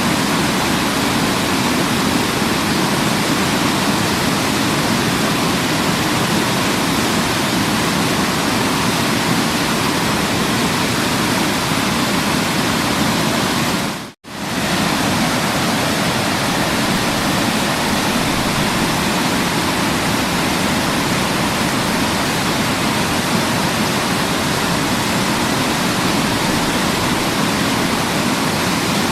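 Waterfall: a steady, even rush of falling water that cuts out briefly about halfway through and comes straight back.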